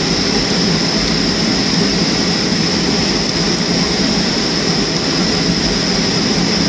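Steady cabin noise inside a Boeing 737-300 taxiing after landing: the idling CFM56 jet engines and the air-conditioning, with a steady high whine over a deep even rush.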